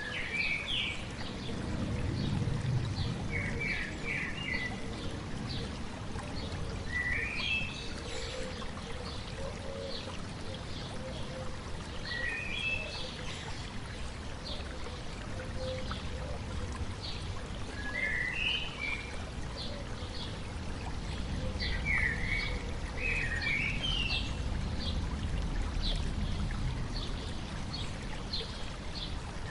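A stream running steadily while a bird sings short chirping phrases every few seconds.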